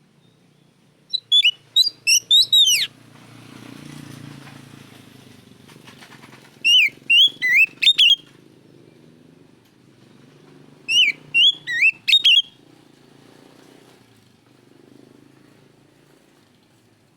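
Oriental magpie-robin singing: three short phrases of sharp, sliding whistles, each lasting one to two seconds, a few seconds apart.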